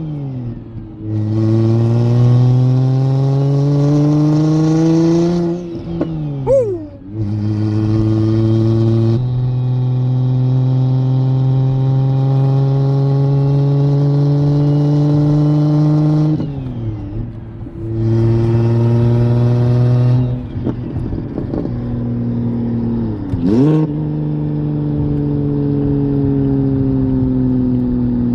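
Single-turbo BMW N54 straight-six pulling away under light throttle: the engine note rises for a few seconds, drops at a gear change about six seconds in, holds steady, and drops again at a second shift. Near the end there is a quick rev blip, then the revs slowly fall. The car is driven gently, below boost.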